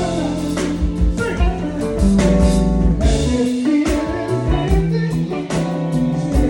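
Band music in a blues style: guitar playing over a bass line, with regular drum hits.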